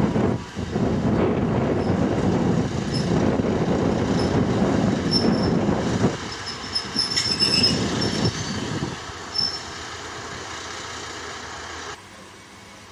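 Museum-railway train running past: a loud rumble of wheels on track for about six seconds that then fades away, with thin high wheel squeals in the middle.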